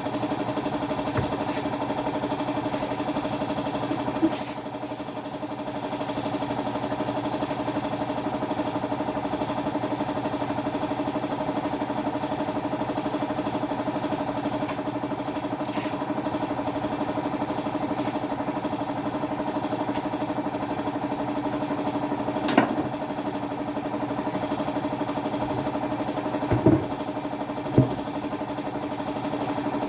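A motor running with a steady, even hum throughout, briefly dropping in level about five seconds in, with a few sharp clicks and knocks over it.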